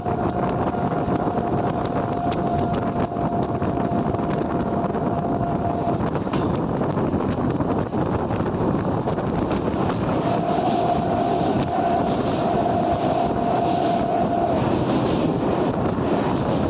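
A train passing close by, its steady running noise mixed with wind on the microphone. A single steady high tone sounds over it for about six seconds and again for about four seconds later on.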